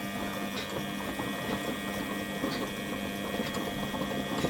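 Front-loading washing machine with its covers off, running mid-wash: a steady mechanical hum with a dense crackly rattle from the belt-driven drum and motor.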